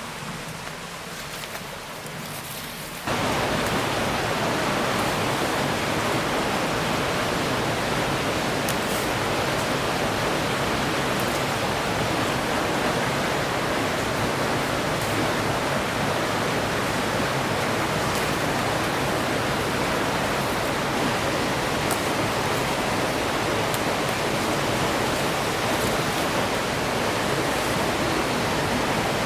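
Rushing river water, a steady hiss without pitch that jumps suddenly louder about three seconds in and then holds level.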